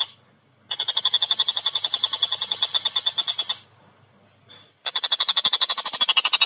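Tengkek buto (Javan kingfisher) giving its rapid cackling call, a fast run of sharp, evenly spaced notes at about ten a second. The calling breaks off for about a second twice and drops slightly in pitch near the end.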